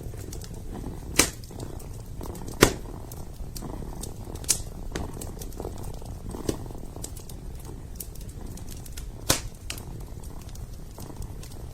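A kitten purring steadily in a low rumble, with a wood fire crackling and giving a few sharp pops, the loudest about a second in, near three seconds and near nine seconds.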